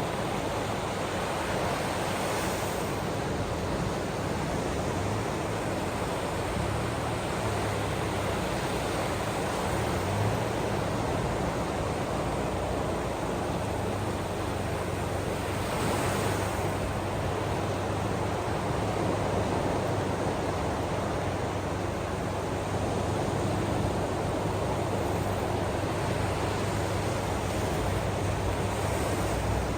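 Ocean waves: a continuous wash of surf, swelling a few seconds in, again about halfway through, and near the end as waves break.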